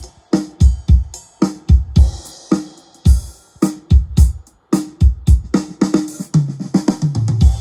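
Drum kit played in a steady groove: deep kick drum thumps alternating with snare hits, with cymbals over many of them, and a low ringing drum tone about a second before the end.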